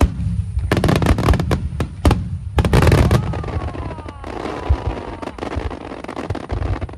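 Aerial fireworks bursting: a rapid run of sharp bangs over the first three seconds, then a dense crackle of small pops that stops just before the end.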